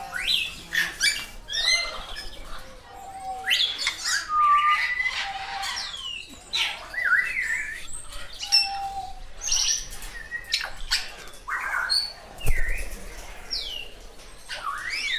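Parrots calling at close range: many overlapping squawks, screeches and whistled calls that sweep up and down in pitch. There is a single loud knock about twelve seconds in.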